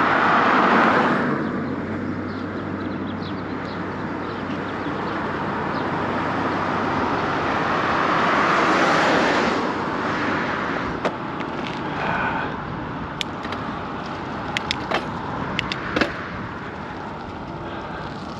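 Wind and road noise on a moving bicycle, with cars going past twice: one swelling and fading at the start, another building to a peak around nine seconds in. Several sharp clicks come in the later part.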